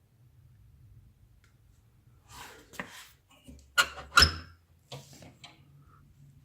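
Sharp knocks and clanks from a metal fireplace door being handled, its leaves and handles knocking, with two loud knocks close together about four seconds in and a few lighter clicks around them.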